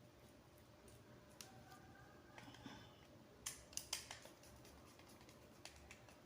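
Faint handling of wires and tools during control-panel wiring: a few faint squeaks, then a quick cluster of sharp clicks about three and a half to four seconds in, over low room tone.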